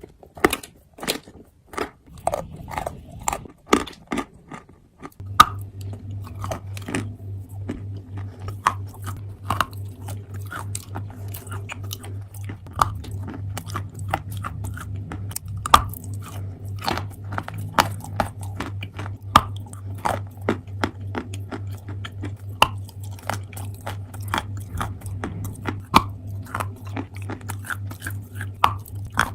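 Close-up biting and chewing of dry edible earth (chalk and clay), a run of sharp crisp crunches, some loud, with quieter chewing between. A steady low hum comes in about five seconds in and stays.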